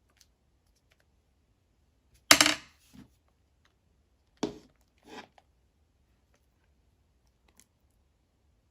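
Shaving-foam slime being pressed and squished by hand, giving a few short crackly squelches: the loudest a little over two seconds in, another sharp one about four and a half seconds in, and softer ones in between and just after.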